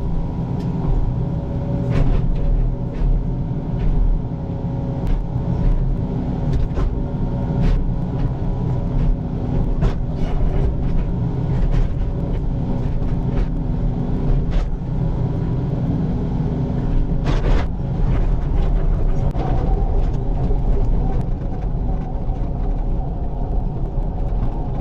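Excavator's diesel engine running steadily under load while the I-beam blade is pulled through the ditch, with scattered short knocks throughout.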